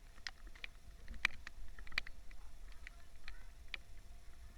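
Scattered drops of rainwater ticking and tapping on hard surfaces, irregular sharp clicks a few per second, over a faint low rumble.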